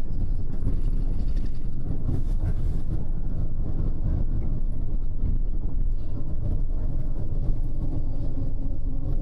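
Double-decker bus driving, heard from inside on the upper deck: a steady low rumble of engine and road noise.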